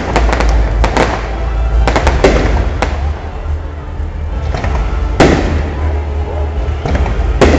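Fireworks display: quick clusters of crackling bangs in the first second and again around two seconds in, then single loud bursts about five seconds in and near the end, over a steady low rumble.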